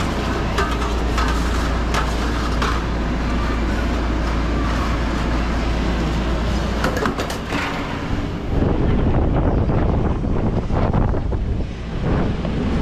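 Food truck kitchen noise: a steady low mechanical hum from the truck's running equipment, with scattered clicks and clatter of cooking work. About eight seconds in the hum changes and the sound gets a little louder.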